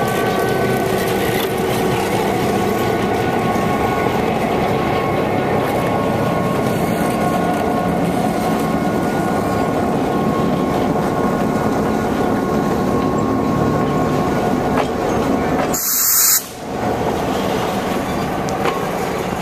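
Vintage passenger coaches rolling steadily through a street grade crossing behind an EMD GP9 diesel, wheels rumbling and rattling over the rails, with a faint steady ringing tone underneath for much of the time. About three-quarters of the way through there is a brief loud hiss, then the level dips for a moment.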